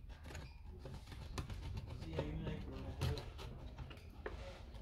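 Small clicks, taps and scrapes of tools and parts being handled while an Apple Time Capsule is taken apart, over a low steady hum.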